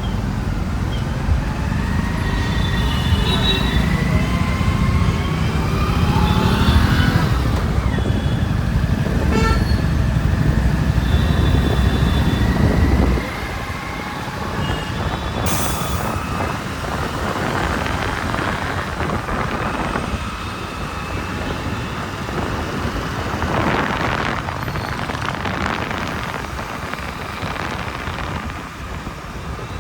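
Road traffic heard from a moving motorbike: engine and road rumble, rising in pitch as the bike speeds up, with several short vehicle horn toots. About halfway through, the heavy rumble drops away suddenly and lighter traffic noise carries on.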